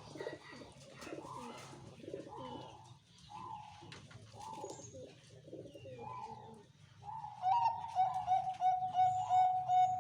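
Zebra dove (perkutut) cooing: soft, uneven coo notes at first, then about seven seconds in a louder, rapid run of coo notes held at one steady pitch. High, quick chirps of a small bird sound over it.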